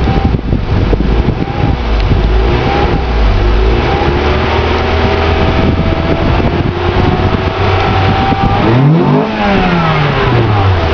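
Acura Integra RS's 1.8-litre four-cylinder engine running through a GSR exhaust and K&N cold air intake, held at a steady note with pitch gliding up and down, and one quick rev that rises and falls back about nine seconds in.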